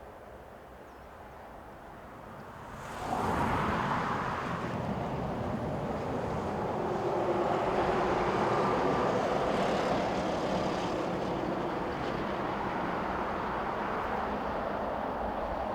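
Electric freight train passing close by, hauled by a Renfe class 251 locomotive: a steady roar of motors and running gear that rises suddenly about three seconds in and then holds.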